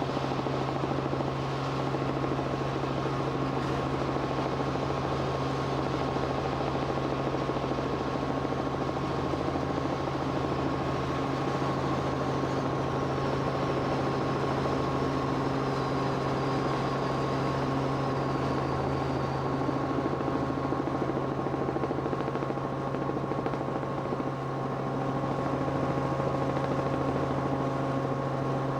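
Steady drone of an aircraft's engine and rotor, with a constant low hum and several steady tones over a rushing noise.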